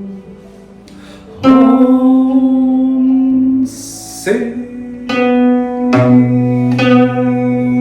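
Slow music on a plucked string instrument: single notes struck about once a second, each ringing on with a long sustain, with a brief hiss in the middle.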